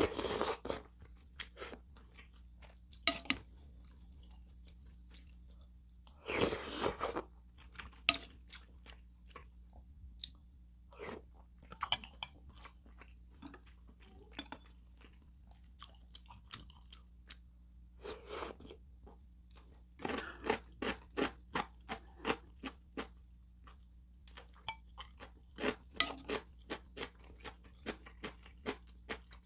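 Close-miked chewing and crunching of crisp radish kimchi, in quick runs of crunchy bites, with a few longer, louder slurps from a spoon of broth-soaked rice.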